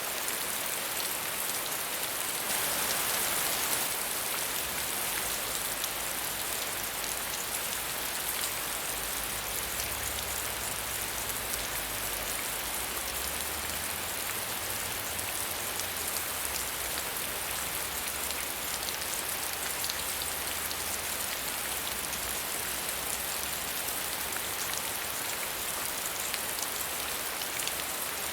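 Steady medium rain falling on a surface, a continuous patter of drops with a slight swell a few seconds in.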